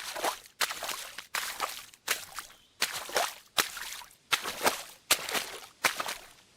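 Steps splashing in water, one about every three-quarters of a second in an even rhythm, each a short splash that dies away.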